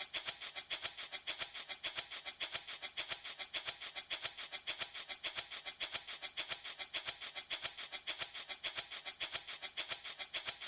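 Handmade wooden baby rattle shaken in a fast, even rhythm of several high-pitched shakes a second, without pause.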